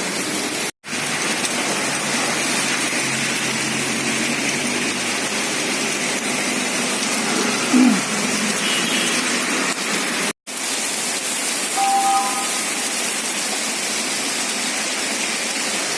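Heavy rain pouring down as a steady rushing hiss, cutting out abruptly twice for a moment, with a couple of brief faint tones in the background.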